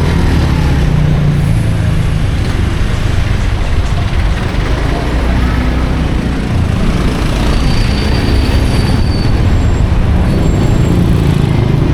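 Motorcycle engine running steadily with wind rushing past during a ride, amid surrounding road traffic.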